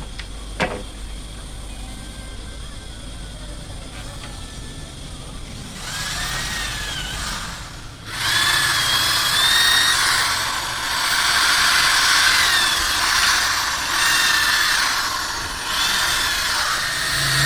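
Power woodworking machine cutting wood, a high whine over a loud rushing noise. It starts about six seconds in, breaks off briefly, then runs on loud, its pitch dipping and rising again and again. A single sharp click comes near the start.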